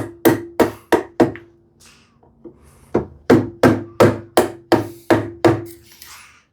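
A mallet striking a chisel to chop stop cuts into wood: sharp, ringing taps at about three a second, five in a row, then a short pause, then eight more.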